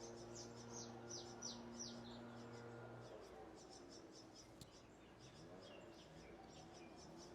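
Faint birds chirping in the background: a run of quick downward-sweeping chirps, then scattered calls. A faint steady low hum stops about three seconds in.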